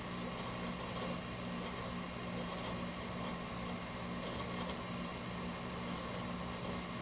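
LG window air conditioner running with its compressor and fan on: a steady low hum under an even rush of air. The compressor is building pressure and the unit is just starting to cool.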